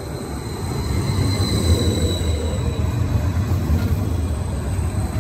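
Greater Anglia Class 755 bi-mode multiple unit running on its diesel power pack as it passes close by, the rumble of wheels on rail and engine noise growing louder over the first second and then holding steady. A thin high whine rises above the rumble about two seconds in.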